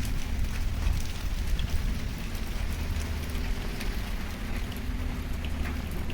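Heavy rain falling, with many sharp ticks of drops striking surfaces over a steady low rumble.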